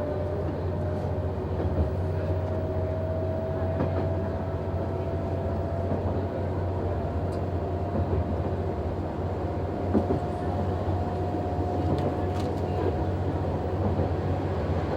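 Noto Railway NT100 diesel railcar running, heard from the driver's cab: a steady low drone with a thin whine slowly rising in pitch, and a few faint clicks from the wheels over the track.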